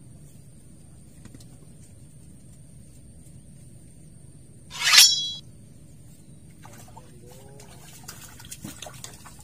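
A short, loud swish about five seconds in, then a hooked fish splashing and thrashing at the water's surface through the last couple of seconds.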